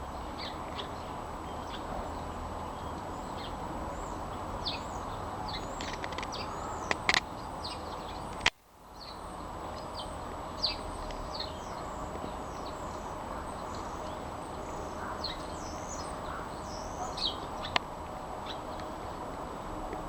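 Small garden birds chirping: many short, high, falling notes scattered throughout over a steady low background rumble. A sharp click comes about eight and a half seconds in, followed by a brief dip in the sound.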